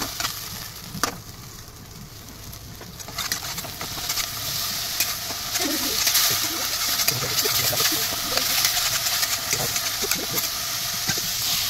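Spiced gravy sizzling in a nonstick wok while a flat metal spatula stirs and scrapes the pan, with one sharp knock about a second in. The sizzle drops for a couple of seconds, then grows louder about three seconds in and stays steady.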